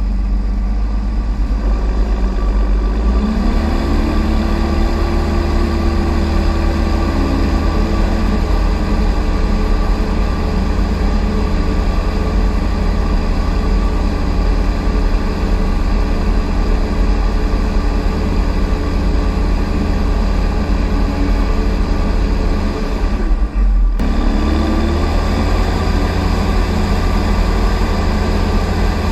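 Fendt 716 Vario tractor's six-cylinder diesel engine running. About three seconds in it revs up and holds at the higher speed. After a brief break about five seconds before the end, it revs up again.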